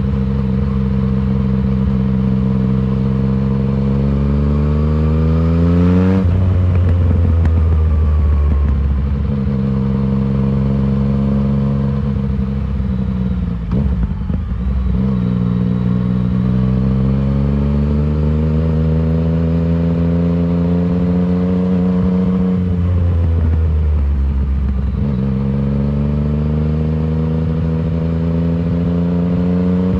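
2019 Yamaha MT-09's inline three-cylinder engine through a full Arrow exhaust system, accelerating hard in repeated pulls: the pitch climbs for several seconds, drops sharply as the throttle closes or a gear changes, then climbs again. Revs fall lowest about fourteen seconds in before it pulls again, and it winds up strongly near the end.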